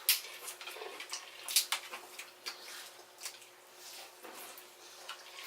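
Seafood boil being eaten by hand: scattered clicks and snaps of crawfish and crab shells being cracked and peeled, with wet squishing.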